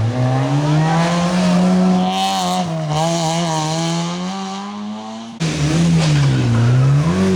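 Rally car engine running hard, its pitch dipping and climbing with lifts and gear changes, then held high and wavering for a few seconds. About five seconds in the sound cuts abruptly to another stretch of a rally car revving down and back up.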